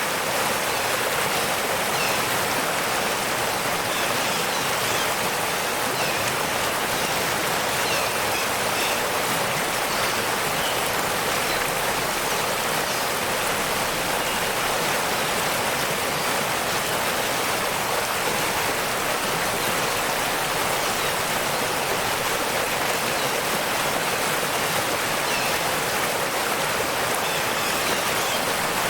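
Waterfall: water rushing and splashing steadily, an even hiss with no breaks.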